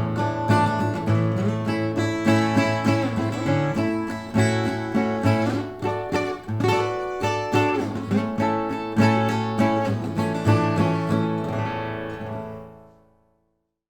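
Acoustic guitar played solo, picked and strummed, recorded through a single RCA 77D ribbon microphone. It fades out to silence near the end.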